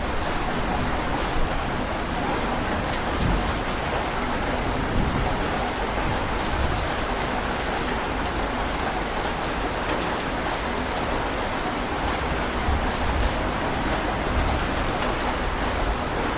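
Heavy rain falling steadily: a dense, even hiss of rain with small irregular swells in loudness.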